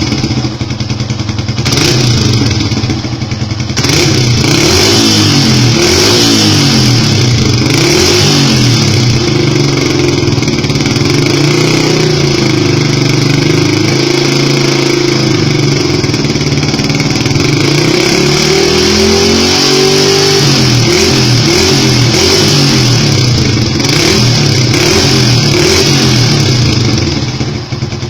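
Yamaha Old Vixion's single-cylinder engine revved repeatedly through an exhaust fitted with an aftermarket silencer and a stainless Powerbomb header pipe. It is blipped in short rises and falls, with one longer rev held higher about two-thirds of the way through before it drops back.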